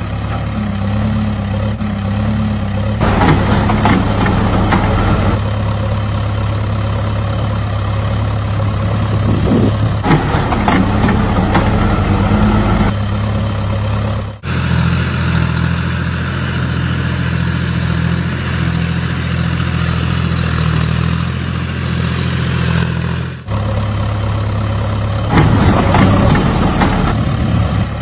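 Mini tractor's engine running steadily at idle, a low even hum. It changes abruptly twice, about halfway through and again near the end, as if cut between takes.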